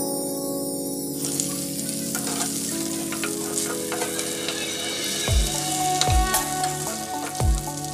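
Mutton pieces sizzling in oil in a non-stick frying pan while a spatula stirs them, with clicks of the spatula scraping the pan. The sizzling starts about a second in, under background music that adds deep bass thumps from about five seconds in.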